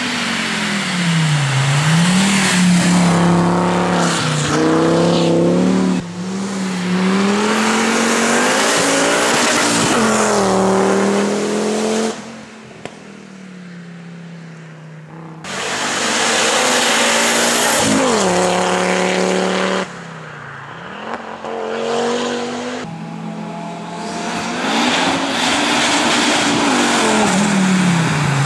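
Fiat Coupé 20V Turbo's turbocharged five-cylinder engine pulling hard uphill. Its note climbs and drops back again and again through gear changes, dips going into corners and then rises as it accelerates out, with a quieter stretch in the middle.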